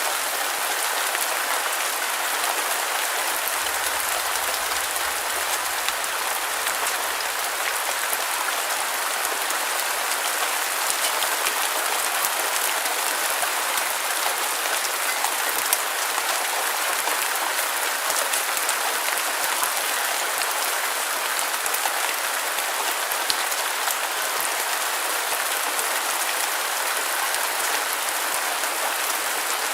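Steady heavy rain with dense, fine pattering of drops on a surface and no change in level.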